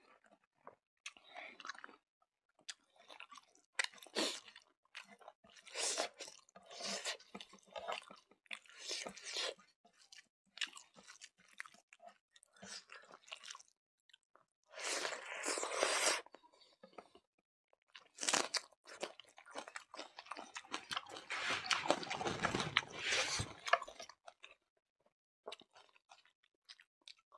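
A man chewing mouthfuls of rice and smoked pork in irregular bursts with short pauses, the busiest stretch about three-quarters of the way through.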